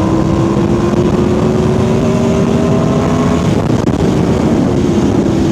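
2011 Aprilia Tuono V4R's V4 engine running under power on the road, its note rising slowly in pitch, with wind rushing over the microphone. About three and a half seconds in the note breaks off briefly, then carries on.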